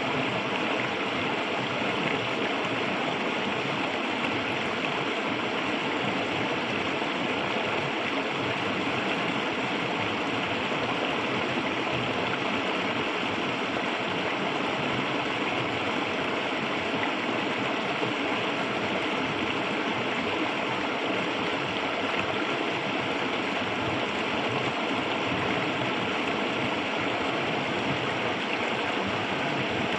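Clear, shallow river flowing over stones, a steady rushing and gurgling of water.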